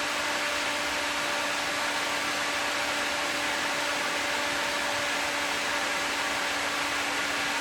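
Flathead Ford V8 with twin Holley 94 carburetors running steadily, heard mostly as an even hiss of air drawn through the carburetors with a faint steady hum underneath.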